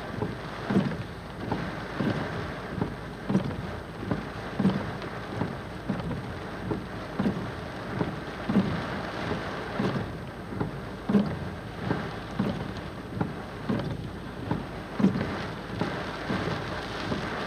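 Rain falling steadily, with a regular low thump about every two-thirds of a second.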